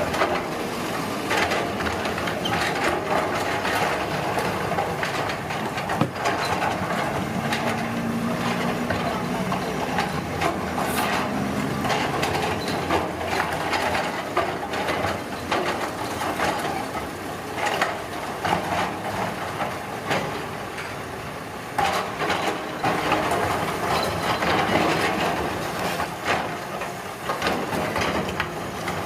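Road construction machinery at work: a continuous rumble and scraping, with frequent knocks and clanks and a low engine hum partway through.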